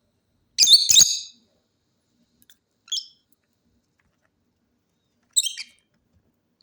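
Pet parrot calling: a loud high-pitched double call about half a second in, a short call near three seconds, and another near five and a half seconds.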